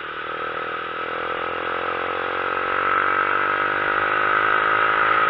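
Motorcycle engine running on a downhill road, its note falling slowly as the bike slows, over steady wind and road noise.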